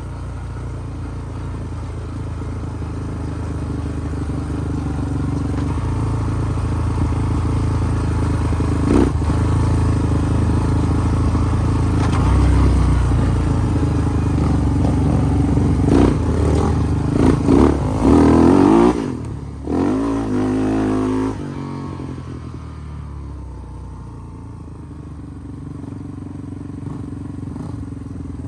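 Off-road vehicle engine running while riding. It builds steadily, revs quickly a few times a little past halfway, then eases off and runs quieter near the end.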